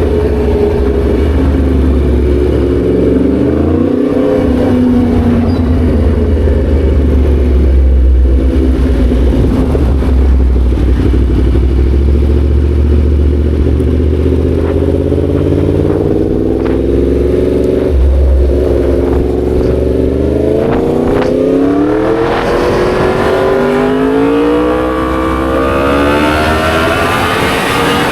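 Yamaha MT-10 SP motorcycle's crossplane inline-four engine and exhaust under way, the engine note rising and falling with the throttle, and climbing repeatedly near the end as it accelerates through the gears, over a low rumble.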